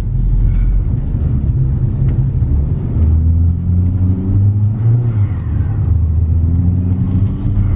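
Hyundai Genesis engine accelerating and easing off, heard from inside the car. Its low rumble rises in pitch and drops back, twice.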